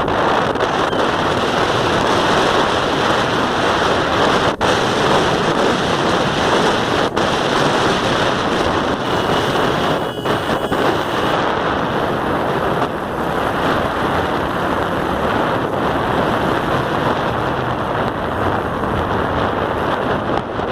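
Motorcycle ride: a loud, steady rush of wind on the microphone, with the bike's engine mixed in and a few brief clicks.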